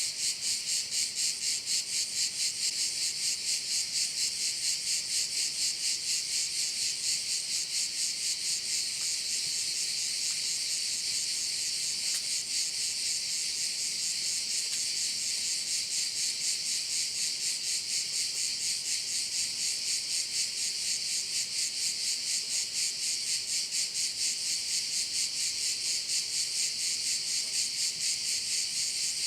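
Chorus of cicadas buzzing without a break, a harsh high hiss that throbs in quick, even pulses, a few a second.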